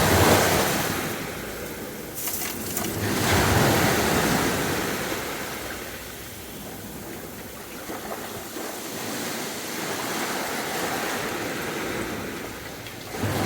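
Sea waves breaking on a beach and washing back. One wave breaks at the start and another about three seconds in, followed by a quieter stretch of wash.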